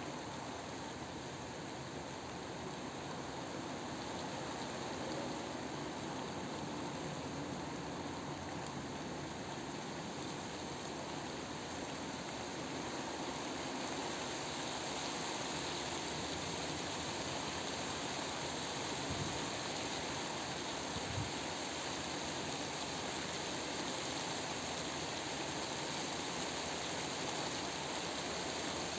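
Steady rain from a thunderstorm, an even hiss that grows a little louder about halfway through, with two brief low thumps about two-thirds of the way in.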